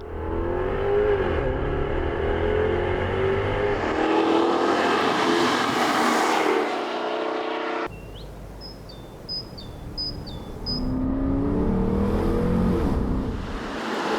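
Jaguar XKR-S's 5-litre supercharged V8 accelerating hard, its pitch climbing and dropping back at each upshift. After a sudden cut about eight seconds in, it goes quieter for a few seconds, with a few short high chirps, then rises again under acceleration.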